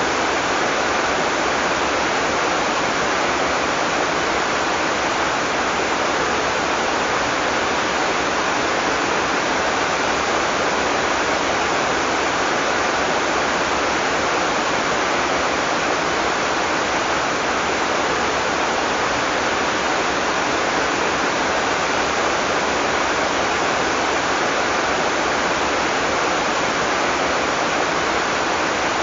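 Heavy rain falling steadily, a dense, even hiss with no thunder or single drops standing out.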